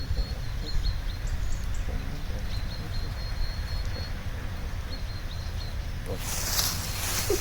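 Outdoor ambience: a steady low rumble, with faint thin high chirps coming and going, then a loud rustling about six seconds in.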